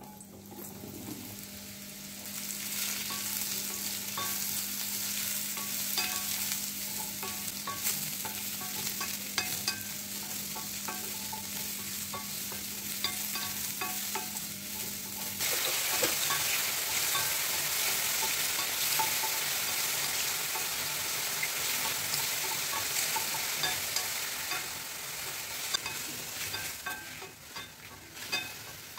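Sliced button mushrooms sizzling in oil in a stainless steel frying pan, stirred with a spatula that clicks and scrapes against the pan. The sizzle builds over the first couple of seconds as the mushrooms go in and gets louder about halfway, when a steady low hum underneath stops.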